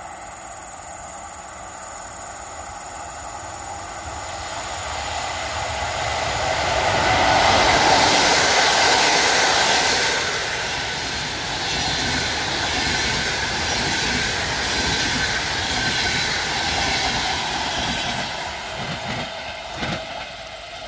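A long passenger train of coaches passing at speed on the main line: the noise builds as it approaches, is loudest about eight seconds in as the front goes by, and stays steady with wheels running on the rails while the coaches pass. It then fades as the tail moves away, with a short knock near the end.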